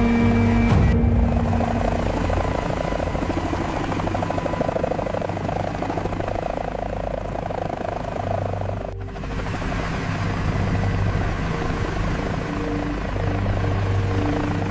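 Helicopter rotor and engine running steadily in flight, with a brief dropout about nine seconds in.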